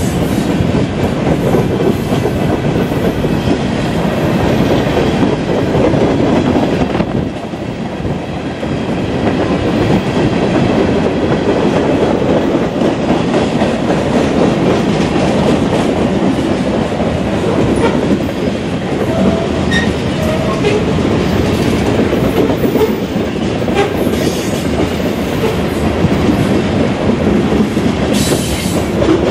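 Freight cars of a long mixed train rolling past close by: steady, loud rolling noise of steel wheels on rail, with a brief high squeal of wheels about two-thirds of the way through.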